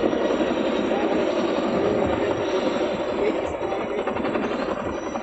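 Chinook tandem-rotor helicopter running, a loud, steady noise of rotors and turbines with a fast, even blade beat.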